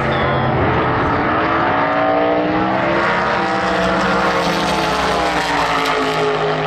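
Drag racing car engine at full throttle going down the strip. Its pitch climbs for about the first three seconds, then slowly falls away.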